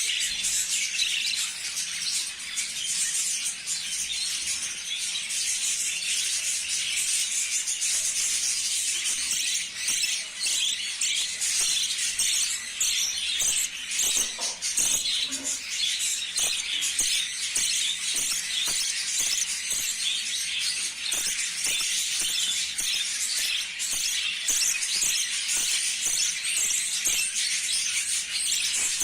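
A flock of budgerigars chattering and chirping continuously in a dense, high-pitched twitter.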